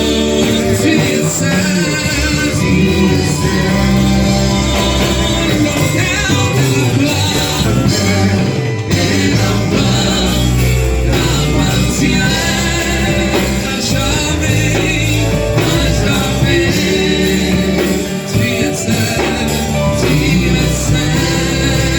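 Loud live gospel worship music: a band with bass and guitar, and singing over it.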